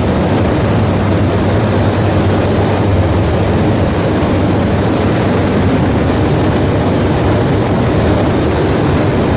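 Cargo ship's diesel machinery running steadily under way: a loud, unchanging engine noise with a low hum and two steady high-pitched tones on top.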